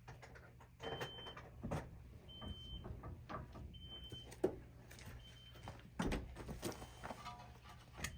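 Worn steering tie rod end knocking and clunking as the linkage is worked back and forth by hand, a sign of play in the joint. A short high squeak repeats about every second and a half.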